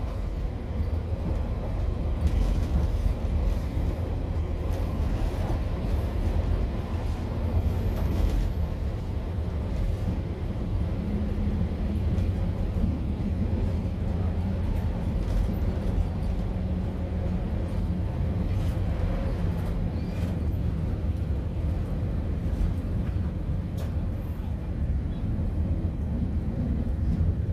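Cabin noise inside a moving Pacer diesel railbus: a steady low rumble of the train running along the line, with a few faint knocks.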